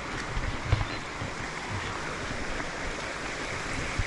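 Steady rushing of a waterfall, with a few low thumps of wind on the microphone.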